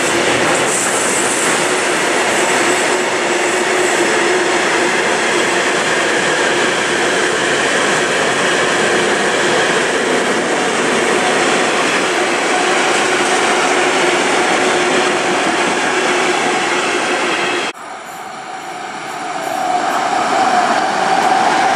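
Freight train of rail tank wagons rolling past at speed: a loud, steady rumble and rattle of wheels on the rails. About 18 seconds in it cuts off suddenly, and an approaching electric-hauled passenger train grows louder, with a steady whine rising over its rumble.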